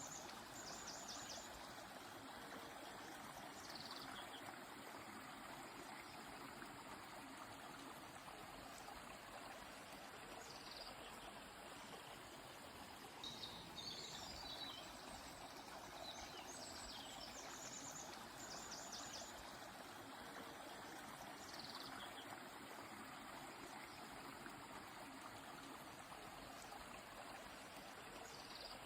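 Steady rush of a flowing stream, with birds calling over it every few seconds in short, high falling calls and quick runs of repeated notes.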